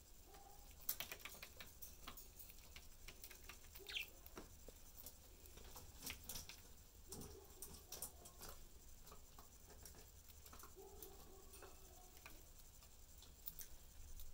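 Pet budgies faintly clicking and tapping about, likely beaks and feet on perches and bars, scattered irregularly, with a few brief soft chirps.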